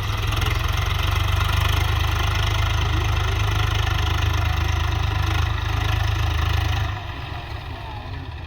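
Swaraj 744 tractor's diesel engine running steadily, then dropping suddenly to a quieter level about seven seconds in.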